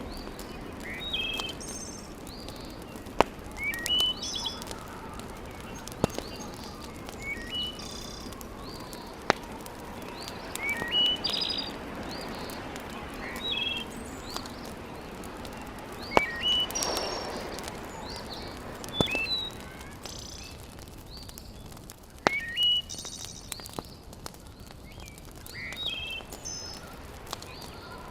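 Wood fire crackling in a fireplace, with a few sharp pops, the loudest sounds, spaced several seconds apart. Birds chirp throughout, repeating a short call every couple of seconds.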